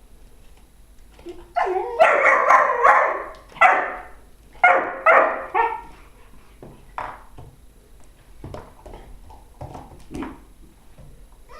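Dog barking: a run of loud barks in the first half, then a few quieter, shorter barks.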